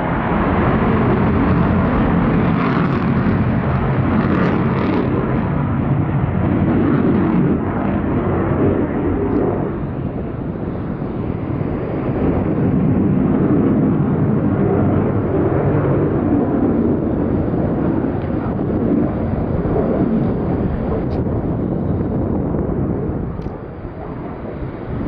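F-22 Raptor's twin Pratt & Whitney F119 turbofans in flight: a loud, continuous jet rumble that swells and eases, dropping back about ten seconds in and again near the end.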